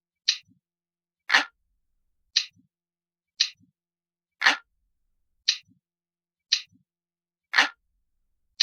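Analog clock ticking at about one tick a second in a steady loop, every third tick fuller and louder, each tick followed by a faint low knock.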